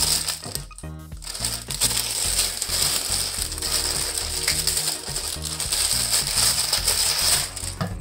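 Packaging being handled and crinkling, a rough noisy rustle that runs for about six seconds before stopping near the end, over background music.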